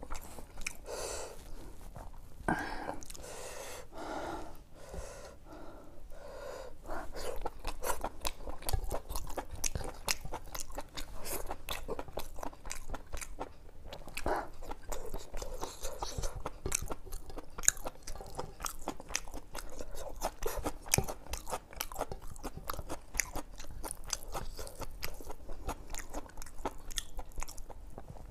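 Close-miked chewing of spicy mutton curry eaten by hand: wet mouth clicks and smacks, many in quick, irregular succession.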